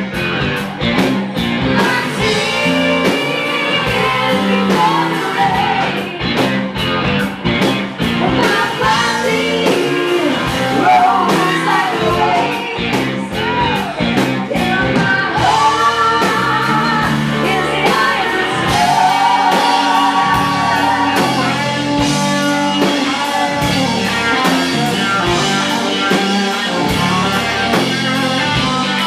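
Live rock band performing with a woman singing lead over electric guitar and drum kit.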